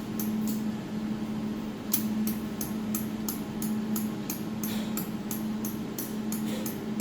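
Steady hum from a 200 W jewelry laser welding machine, with a run of short sharp clicks, about three a second, starting about two seconds in as an alignment knob is turned.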